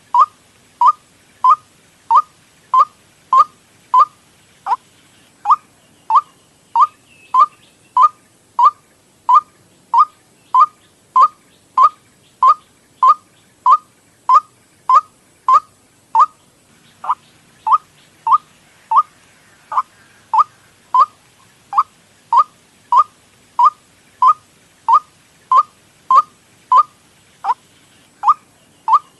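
White-breasted waterhen lure call: a short falling note repeated steadily, about one every 0.6 seconds, with a brief pause about halfway through.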